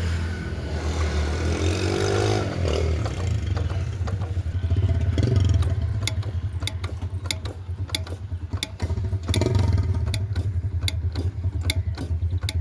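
Old diesel engine running with a steady low drone. About four seconds in, sharp regular clicks start, a little under two a second.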